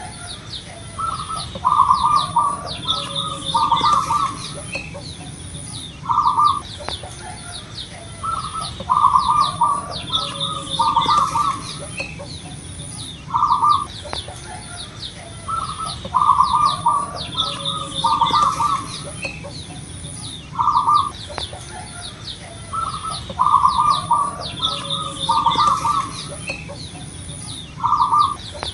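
Zebra dove (perkutut) cooing: phrases of quick rolling coos repeated every couple of seconds, loud and clear, with thin high chirps of smaller birds and a steady high-pitched whine behind.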